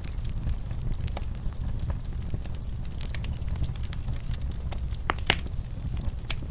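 Wood fire burning in a fireplace with a steady low rumble and scattered sharp crackles and pops. The loudest pops come in a quick cluster a little after five seconds in.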